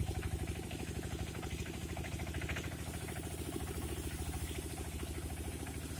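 An engine running steadily at idle, with a fast, even throb.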